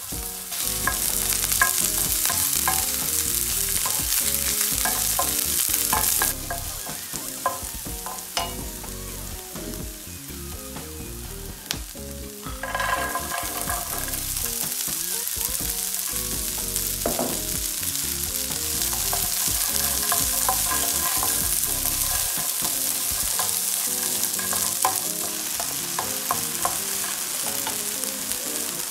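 Red onion and garlic sizzling in oil in a nonstick frying pan, with a wooden spoon clicking and scraping as it stirs. The sizzle drops after about six seconds. About thirteen seconds in, soaked white beans are tipped into the pan and the frying sizzle rises again and stays steady.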